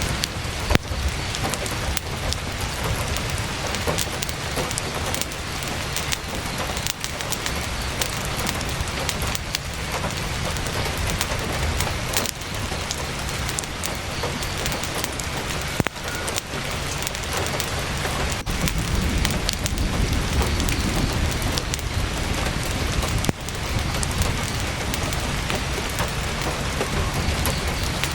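Heavy rain beating steadily on a tent's fabric, dense and even, with many short sharp ticks and crackles scattered through it, among them the crackling of a campfire.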